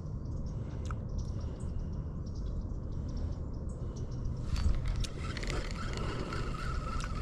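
Low steady rumble of outdoor wind and water around a small fishing boat, with scattered light clicks. A faint thin steady tone comes in near the end.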